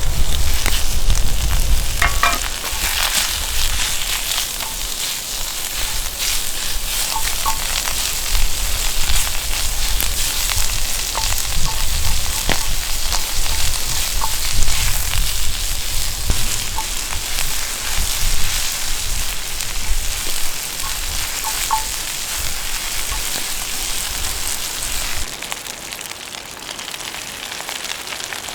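Food sizzling and frying in a pan, a steady hiss with scattered small pops and crackles. A low rumble sits under it for the first few seconds, and the sizzle drops away about 25 seconds in.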